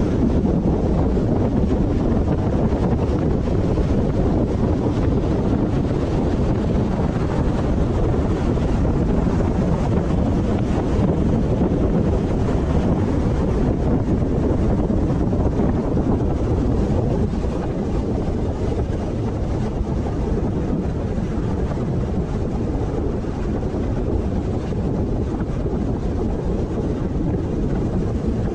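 Steady road and wind noise from a car driving, with wind buffeting the microphone; it eases slightly about two-thirds of the way through.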